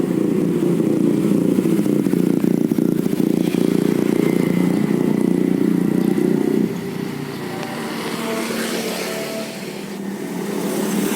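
Yamaha New Jupiter MX motorcycle, its single-cylinder four-stroke engine bored out to 177cc, running through a DX Generation aftermarket racing exhaust. The exhaust note is loud and dense at first, drops in level about two-thirds of the way in, then builds again near the end.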